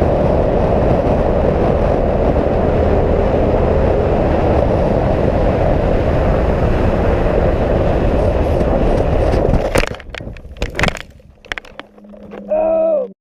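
Loud, steady wind and engine noise of a motorcycle riding at speed, which breaks off about ten seconds in into a few sharp knocks and scraping, typical of a crash. A short wavering pitched sound over a steady low hum comes near the end.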